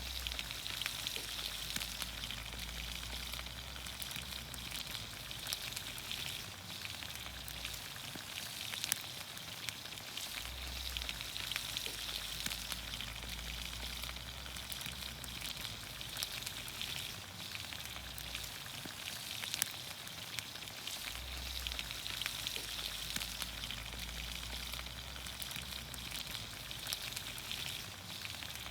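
Vegetables sizzling in olive oil over a campfire: a steady hiss with constant small crackles and pops.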